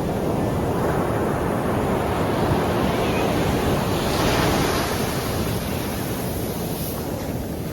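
Sea surf washing onto the shore in a steady rush, with a wave swelling up about four seconds in and then easing; low wind rumble on the microphone underneath.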